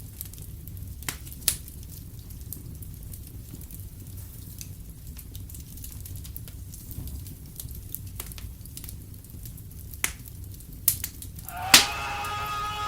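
Wood fire crackling in a fireplace over a low steady rumble, with sharp pops now and then, the loudest a little before the end. Near the end a high-pitched scream starts and is held.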